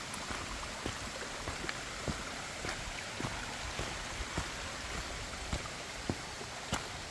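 Mountain stream running with a steady rush, with faint irregular clicks over it.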